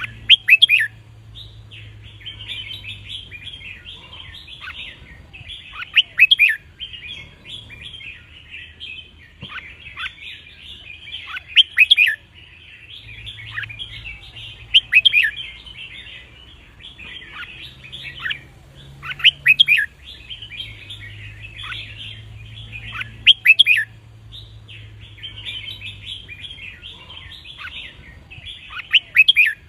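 Red-whiskered bulbuls singing: loud, sharp song phrases every three to six seconds over continuous chattering.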